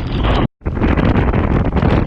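Typhoon eyewall wind buffeting the microphone, with lashing rain and spray. The sound cuts out completely for a split second about half a second in, then resumes just as loud.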